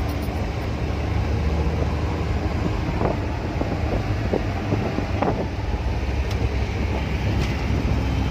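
Steady low rumble of road traffic mixed with wind noise on the microphone, with a few faint clicks in the middle.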